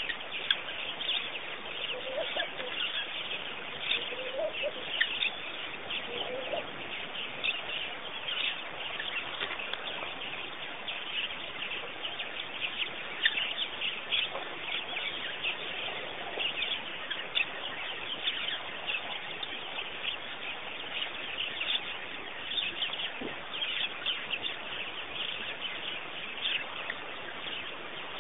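Chorus of many small birds chirping and chattering continuously, with a few lower calls in the first several seconds.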